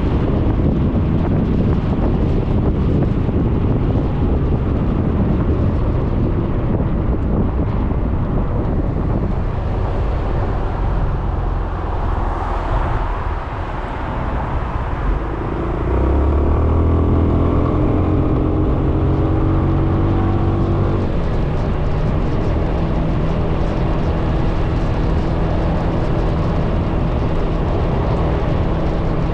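Suzuki Burgman 400 maxi-scooter being ridden in traffic: wind and road noise rush over the microphone. Then, about halfway through, the rush eases and a steady engine drone comes up and holds.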